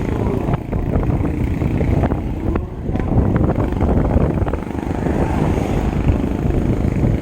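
Wind buffeting the microphone on a moving bike, a heavy low rumble with a few sharp rattling clicks.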